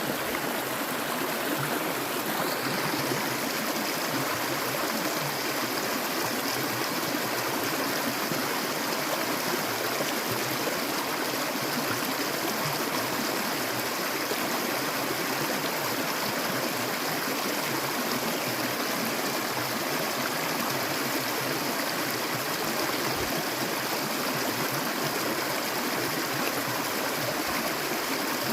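A clear stream of water flowing steadily, an even, unbroken rush of running water.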